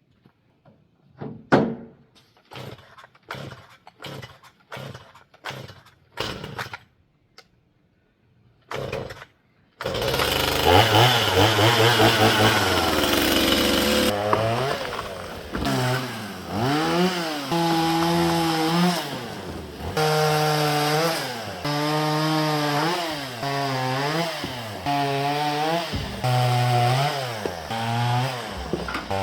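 Scattered knocks and handling sounds, then a Stihl two-stroke chainsaw starts about ten seconds in. It is revved up and down in repeated bursts, about every two seconds, as it cuts up a fallen tree.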